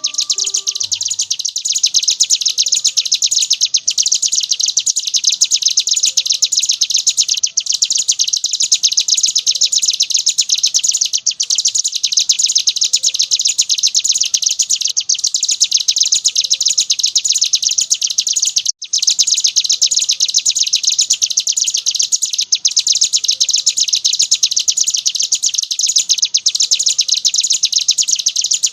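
Ciblek gunung, a prinia, singing a continuous rapid 'ngebren' chatter: a dense, unbroken run of high notes with only a brief pause about two-thirds of the way through.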